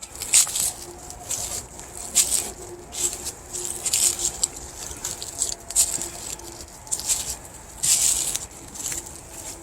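Footsteps rustling and crunching on a dry trail, an uneven run of short scuffs about one every half second to second, over a faint steady hum.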